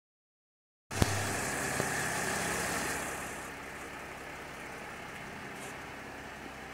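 Mercedes GL X164's engine idling steadily, with a sharp click just as the sound begins; it grows a little quieter after about three seconds.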